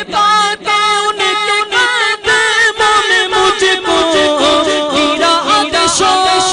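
A naat, an Urdu devotional poem, sung unaccompanied by a male reciter, who holds a long, wavering melodic run between lines of text.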